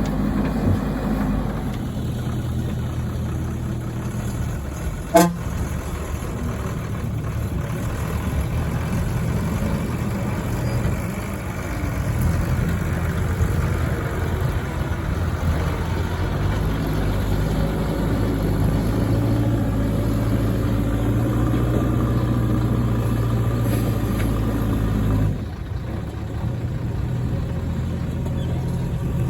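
JCB 3DX backhoe loader's diesel engine running under working load, its note shifting as it works. There is one sharp, loud knock about five seconds in, and the engine sound briefly drops a little after twenty-five seconds.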